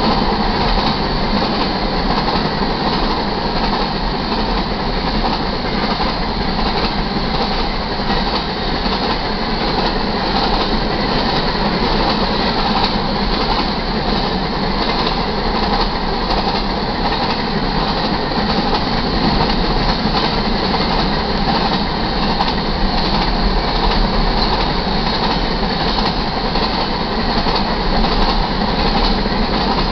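Covered hopper cars of a freight sand train rolling past steadily: a continuous rumble and rattle of steel wheels on rail.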